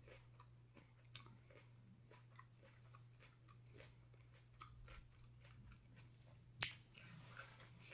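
Faint chewing: soft, scattered wet mouth clicks of someone eating salad with her mouth closed, with one sharper click about six and a half seconds in. A low steady hum sits underneath.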